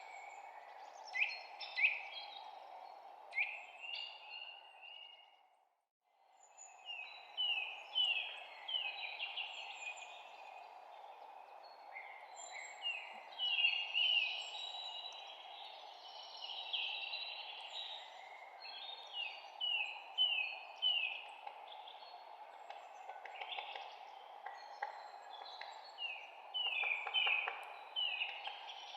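Several small songbirds chirping and trilling in quick overlapping phrases over a steady background hush. All of it fades to silence for about a second, five to six seconds in, then returns.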